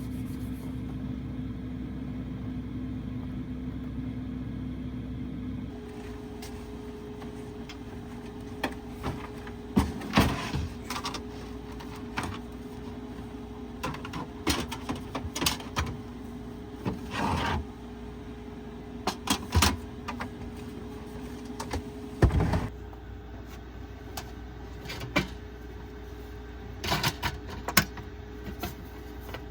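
A steady electrical or mechanical hum that shifts in pitch about six seconds in, with scattered clicks and knocks from about eight seconds on.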